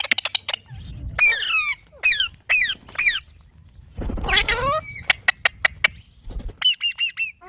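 Parrot calling: a string of short, harsh calls that slide down in pitch, with runs of quick clicks between them and a fast run of short, repeated calls near the end.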